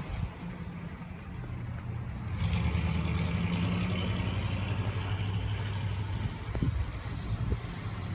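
A car engine running steadily. About two and a half seconds in it gets louder and a hiss joins it, with a couple of short clicks later on.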